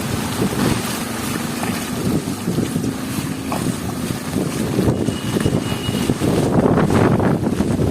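Heavy rain hissing with gusts of wind buffeting the microphone, and a vehicle engine humming steadily in the first half.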